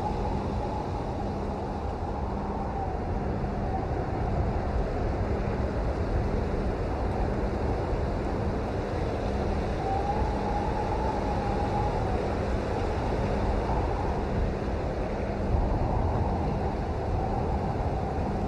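Steady rain noise, heavy in the low end, with a faint wavering tone that drifts up and down beneath it.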